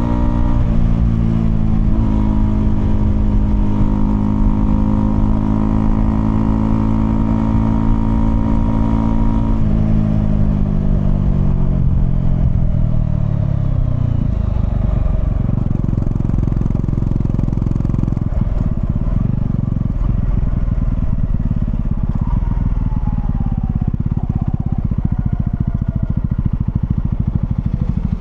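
Honda CL250 motorcycle engine running at a steady speed, then its note falls over several seconds as the revs drop, settling into a low, even rumble near idle for the rest.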